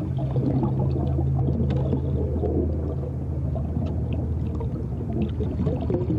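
Ambient sound-design drone for the film soundtrack: a steady low hum with a busy, churning texture and scattered short clicks above it; the higher of the low hum tones fades out about halfway through.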